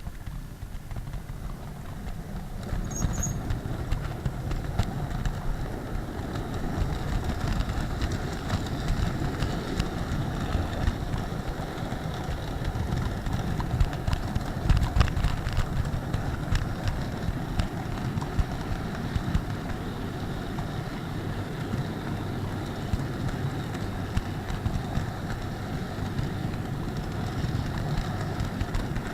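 H0 model train running, heard close up through a small camera riding on the train: a steady rumble of wheels on the track with a faint motor whine and scattered clicks.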